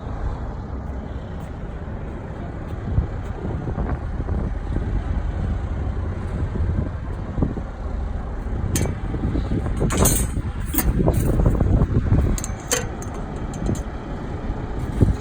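Steady low rumble with scattered clicks, and a run of sharp metallic clanks and rattles between about nine and thirteen seconds in as the muffler is handled and turned.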